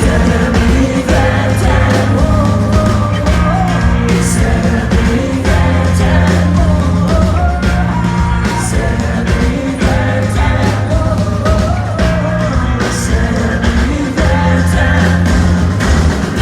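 Live rock band playing with a woman singing over a steady bass line and drums, with a cymbal-like accent about every four seconds.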